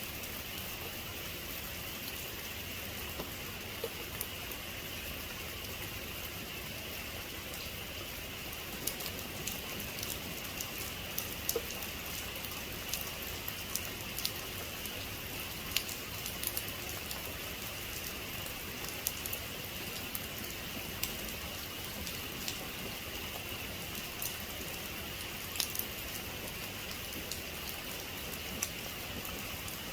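Steady heavy rain hissing, with scattered sharp drip ticks that come more often from about a third of the way in.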